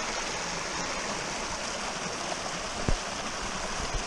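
Creek water rushing steadily, with one short thump about three seconds in.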